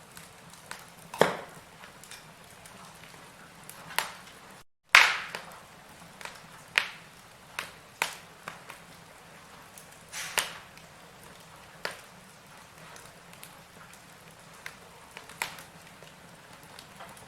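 Firewood burning in a fireplace, crackling with irregular sharp pops over a low steady hiss. The loudest pops come about a second in, about five seconds in and about ten seconds in.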